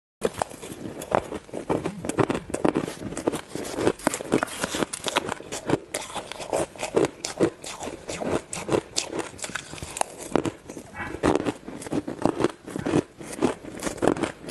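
Ice being bitten and chewed close to the microphone: a dense run of sharp, cracking crunches, several a second.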